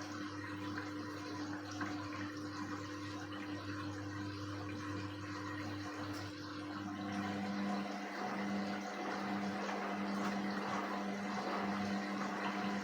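Indesit WISN 101 front-loading washing machine during its rinse cycle: water rushing through the machine over a steady mechanical hum. A second, higher hum is missing at first and comes back about halfway through.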